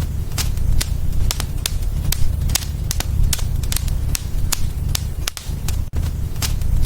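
Wood fire burning in a fireplace: frequent sharp crackles and pops, several a second, over a low steady rumble of flames.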